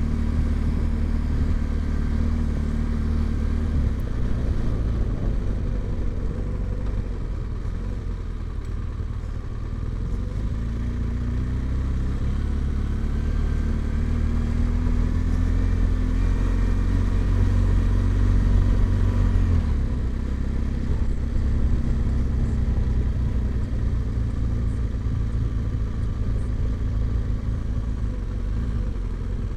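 Motorcycle engine running under way, its pitch climbing steadily for several seconds in the middle and dropping suddenly about two-thirds of the way through, as with a throttle roll-off or gear change.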